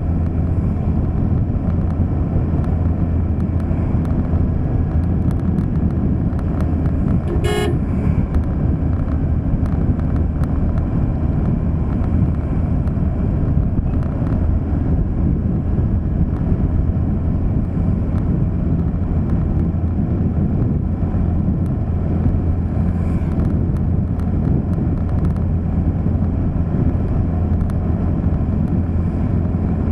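Motor vehicle driving along a road, a steady low engine and road rumble, with one short car-horn toot about seven and a half seconds in.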